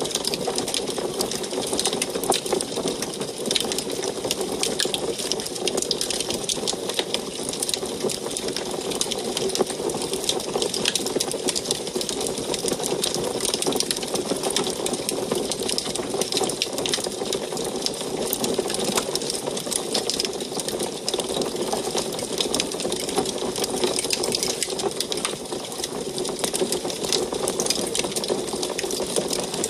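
Wood fire burning in an antique wood stove, crackling constantly: many small, irregular pops and snaps over a steady hiss.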